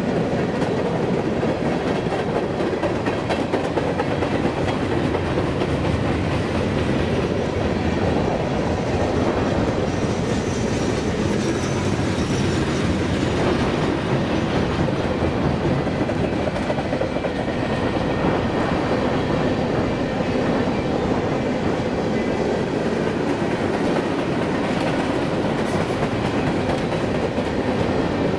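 Freight cars of a passing Union Pacific freight train rolling by: a steady rumble and clatter of steel wheels on rail.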